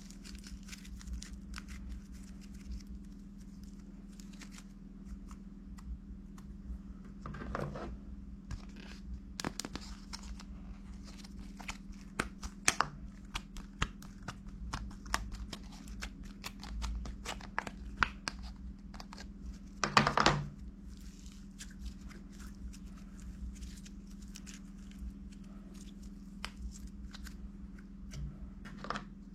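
Irregular clicks, crackles and scratchy handling noises, loudest in a short burst about twenty seconds in, over a steady low hum.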